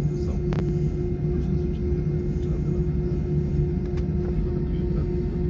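Steady rumble of a passenger jet's engines and airflow heard inside the cabin, with a steady low hum and a faint click about half a second in.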